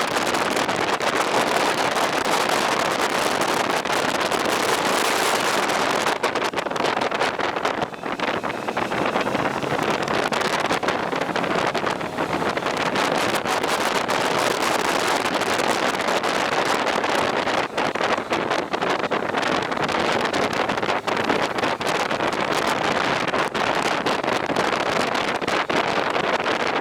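Steady wind rush on the microphone with road noise from a moving vehicle.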